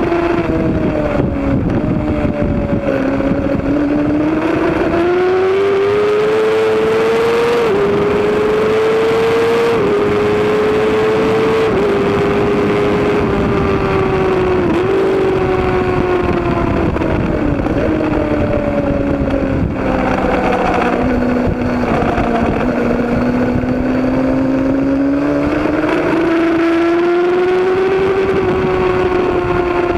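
Racing motorcycle engine under hard acceleration, its pitch climbing and then dropping abruptly at each upshift several times. It falls away for several seconds, then climbs again, with a steady rush of wind and track noise underneath.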